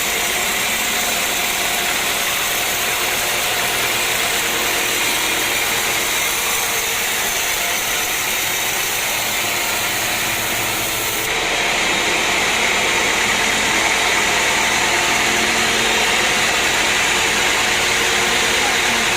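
Sawmill machinery running steadily: a loud, even mechanical noise with a faint hum under it. About eleven seconds in, the noise changes abruptly, losing its highest hiss and growing a little louder.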